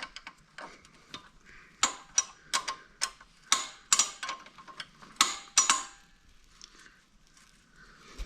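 Hand tools clicking and clinking against metal parts: about a dozen sharp, uneven metallic clicks over a few seconds, then only faint handling noise.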